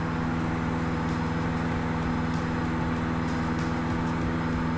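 Cessna 152's four-cylinder piston engine and propeller running steadily at full climb power.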